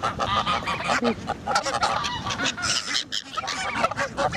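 A flock of geese honking, many calls overlapping, with a short lull about three seconds in.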